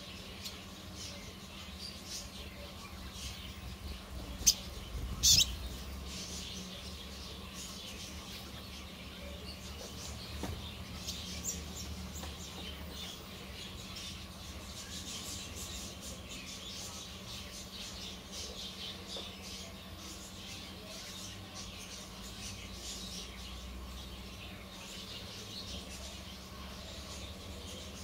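Small birds chirping with many short, high, thin chirps, and two louder sharp calls about four and five seconds in, over a faint steady hum.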